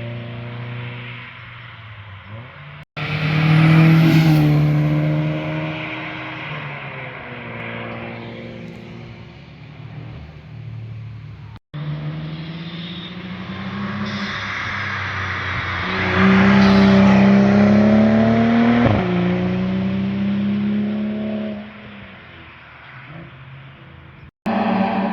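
Sports cars being driven hard past the microphone one after another, engines revving up through the gears and dropping on each shift, the exhaust note swelling as each car nears and fading as it goes by. The sound breaks off abruptly three times between passes.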